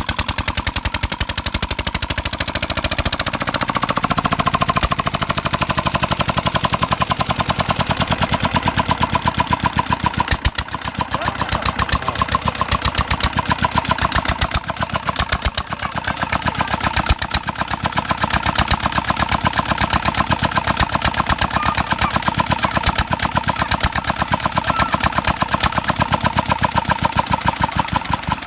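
Single-cylinder Petter-type stationary diesel engine running at full speed, a fast, even beat of firing strokes.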